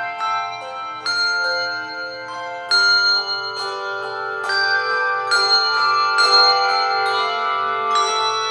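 Handbell choir playing music: chords of struck handbells whose tones ring on and overlap, with fresh strikes every second or two.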